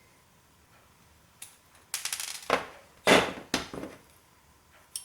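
Metal parts of an old hard drive clattering and clinking as its stepper motor is worked free. A single click comes about a second and a half in, then a run of clatter with one heavy metal clunk near the middle.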